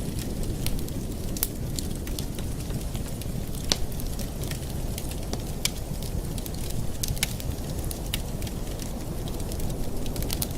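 Wood fire in a fireplace crackling: irregular sharp pops and snaps over a steady low rumble, with one louder pop a little over a third of the way through.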